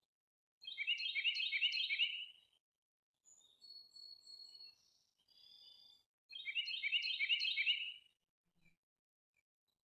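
Songbirds singing: a loud, fast, chattering song phrase about two seconds long, sung twice with a pause of about four seconds between. In that pause come quieter, higher, thinner notes, likely from a second bird.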